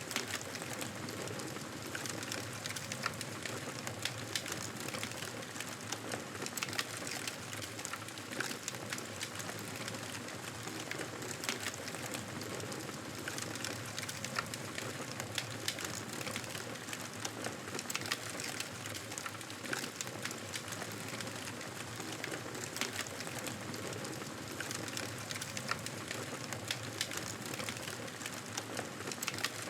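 Wood fire burning in a fireplace, a steady hiss with irregular crackles and pops throughout.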